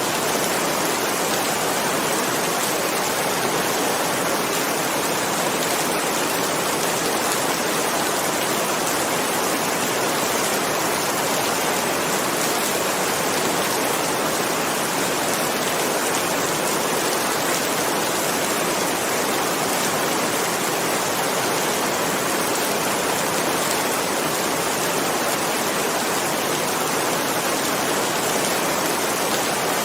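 Heavy rain falling, a dense steady hiss with no breaks or thunderclaps.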